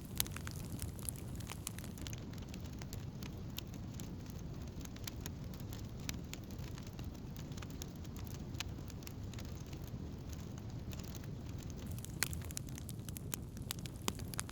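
Wood campfire burning: scattered sharp crackles and pops over a steady low rumble, the pops sparser through the middle and coming more often near the end.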